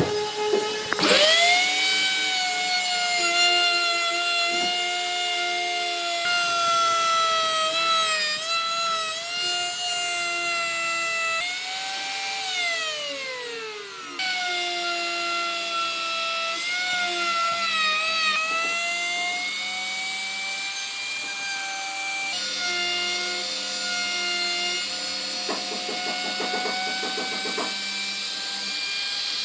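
Electric power tool working wood, its motor giving a steady high whine that dips and wavers as it bites. About a second in it spins up. Partway through the pitch slides down, then the tool comes back at full speed, and near the end there is a rapid chatter against the wood.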